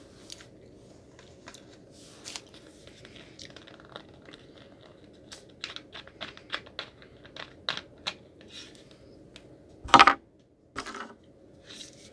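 Close-miked chewing and eating: a string of short wet mouth clicks and smacks, with a brief loud burst about ten seconds in and a smaller one right after.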